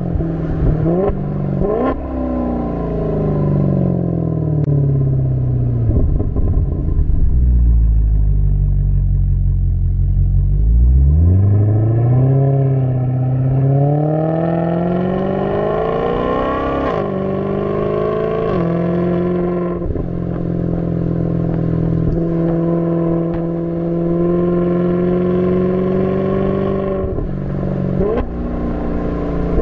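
2015 Maserati GranCabrio S's 4.7-litre Ferrari-derived V8 on the road. Its pitch falls for several seconds as the car slows, runs low and steady for a few seconds, then rises through a couple of upshifts under acceleration before holding a steady cruise, with another gear change near the end.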